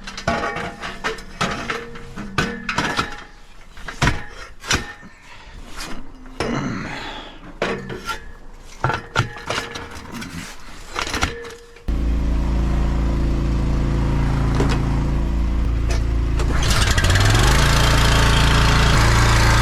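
Irregular metal clanks and knocks of equipment being handled. About twelve seconds in, an engine cuts in running steadily, and a loud hiss joins it about five seconds later.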